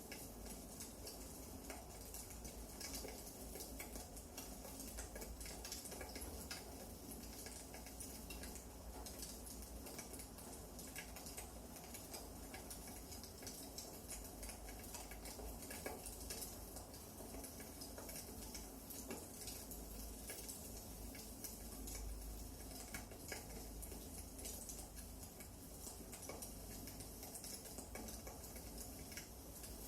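Firewood burning in a fireplace: faint, irregular small crackles and pops over a steady low hiss.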